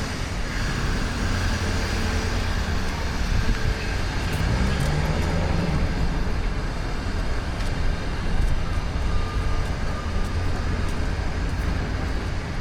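Downtown street traffic: a steady low rumble of passing vehicles, with one engine rising in pitch about four to five seconds in.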